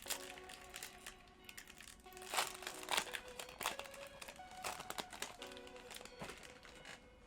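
Crinkling and rustling of Pokémon card packs and cards being handled, a few sharper crackles among them, over soft background music with held notes.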